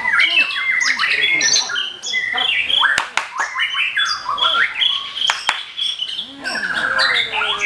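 Many caged songbirds singing at once, a dense overlapping chorus of whistles, trills and chattering calls, with two sharp clicks partway through.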